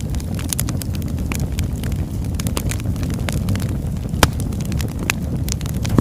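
Burning logs crackling: a steady low rumble of the fire with irregular sharp pops and snaps, one loud pop a little past the middle.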